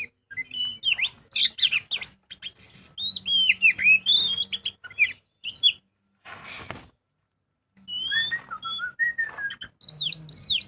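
Oriental magpie-robin (kacer) singing in a rich, varied song: quick runs of whistled notes and sweeping chirps, in phrases. The song pauses for about a second past the middle, where a short hiss is heard, and a faint steady low hum runs underneath.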